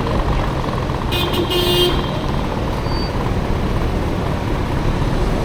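Steady riding rumble and road noise from a small motor scooter in traffic, with a short vehicle horn toot about a second in, lasting under a second.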